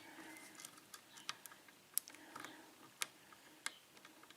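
Faint, irregular light clicks and ticks of a small lock pick working the pin stacks of an Abus No. 41 four-pin padlock held under tension, one click every half second or so.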